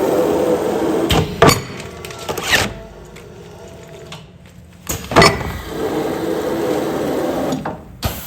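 Commercial food-container sealing machine running through its sealing cycle: stretches of steady machine running broken by sharp mechanical clunks, a few about a second in and another pair around five seconds.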